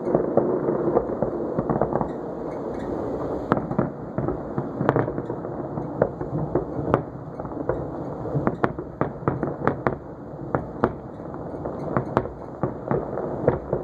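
Aerial fireworks bursting over a continuous rumble. Sharp cracking pops come thick and fast in the second half.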